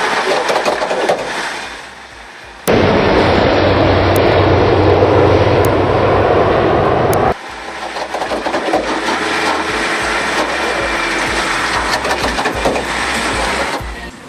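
Heavy vehicle machinery running loudly, in three segments that cut in and out abruptly. The middle segment, from about 3 to 7 seconds in, is the loudest: a dense rumble with a strong low hum.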